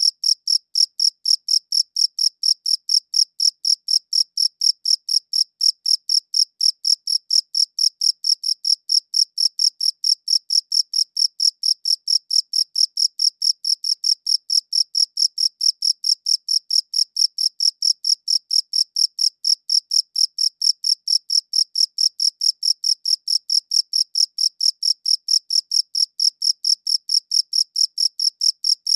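A cricket chirping close by in a steady, even rhythm of short high-pitched chirps, about four a second, without a break.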